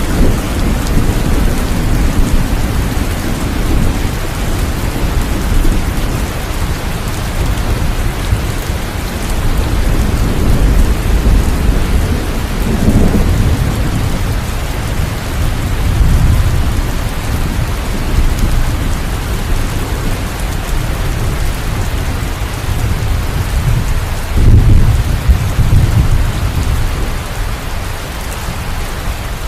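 Steady heavy rain hissing, under rolling thunder that rumbles low and swells several times, loudest about three-quarters of the way through.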